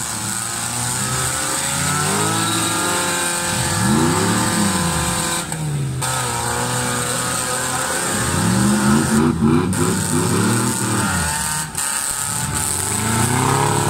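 Several old car engines revving up and dropping back again and again as demolition-race cars drive hard around the track.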